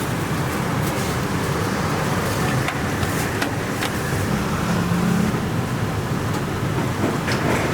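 Busy kitchen sounds: a steady low rumble with scattered sharp clinks and taps of utensils.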